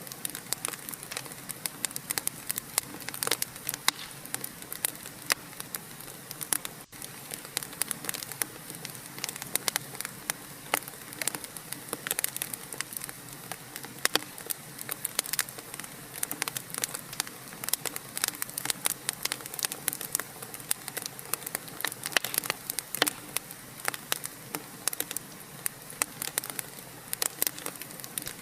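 Wood fire in a fireplace crackling: a dense run of small irregular pops and snaps over a steady hiss, with a brief gap about seven seconds in.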